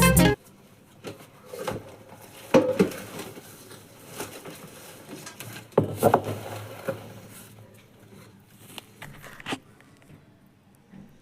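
Guitar music cutting off just after the start, followed by scattered light knocks, taps and rustles of things being handled by hand, a few louder knocks among them.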